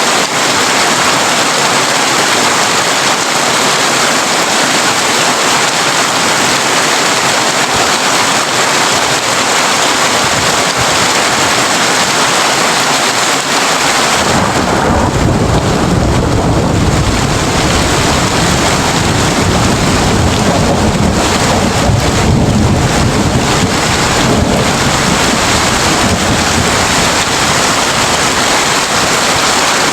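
Heavy rain drumming steadily on a tin roof. About halfway through, a long, low rumble of thunder rolls in and keeps going under the rain.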